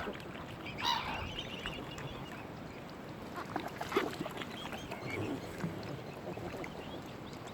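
Mute swan cygnets peeping: short, high, bending calls, with one louder call about a second in.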